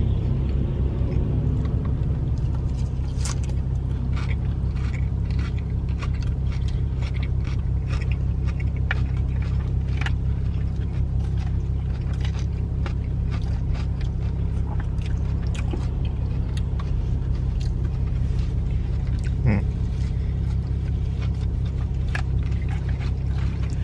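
Steady low rumble of a car's cabin with the engine idling, under scattered small clicks and scrapes of eating salad from a bowl.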